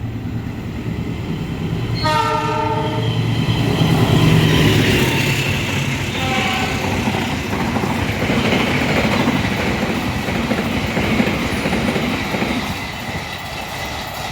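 A train passing through a station at speed. Its horn sounds for about a second, about two seconds in, and again briefly around six seconds, over the steady rumble and clatter of the wheels on the track.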